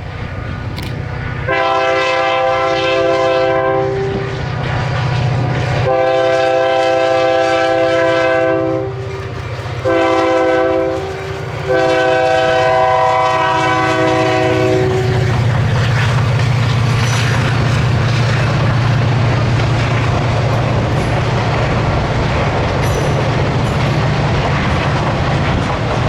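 Diesel locomotive's multi-tone air horn sounding the grade-crossing signal, long, long, short, long, over the steady drone of its engine. After the last blast, about halfway through, the horn stops and the train rolls past with engine and rail noise.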